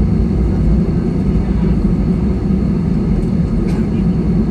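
Steady low rumble of an airliner's engines and airframe heard inside the passenger cabin as the plane rolls on the ground just after landing, with a light click near the end.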